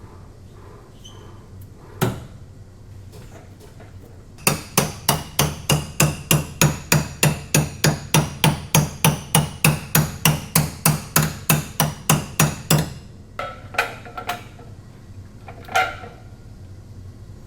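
Hammer blows on car body sheet metal, likely on the damaged quarter panel being pulled on a frame machine. One strike comes about two seconds in, then an even run of about three blows a second for some eight seconds, then a few scattered strikes near the end.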